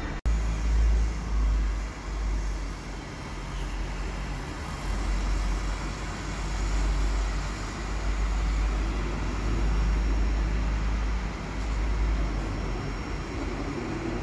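A Bayerische Regiobahn (BRB) regional train running past on a nearby track: a steady deep rumble with a noisy hiss over it.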